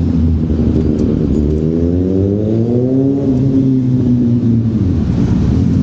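Motorcycle engine running, its pitch rising smoothly about a second and a half in and levelling off about three seconds in, as when pulling away.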